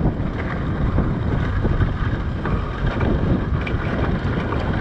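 Wind buffeting the microphone over a dirt bike's engine running steadily under way.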